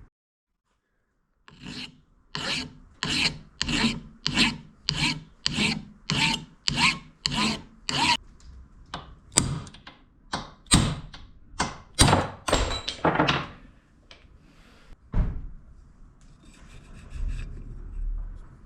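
Abrasive hand strokes, the rasping rub of filing or sanding a part of an old hand drill under restoration. Even back-and-forth strokes about one and a half a second start after a second and a half of silence, then turn sharper and less regular before stopping about two-thirds of the way through.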